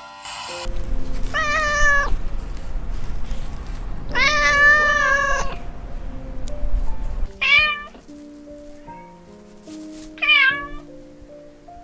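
A domestic cat meowing four times, the second meow long and drawn out, over soft background music.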